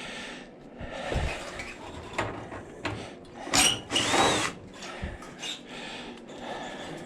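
Power drill backing screws out of an AC condenser unit's sheet-metal casing: a short run about halfway through, its whine rising and falling, among scattered knocks and rattles of the metal.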